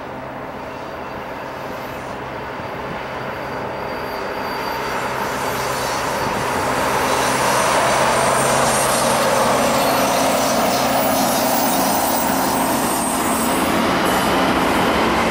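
Two Norfolk Southern diesel locomotives, an SD60M and a C44-9W, approach and pass with their engines running steadily, growing louder over the first half. They are followed by the steady clatter and hiss of autorack cars' steel wheels on the rails.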